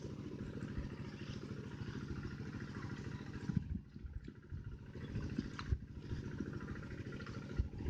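A small engine running steadily at idle, with a few light clicks over it.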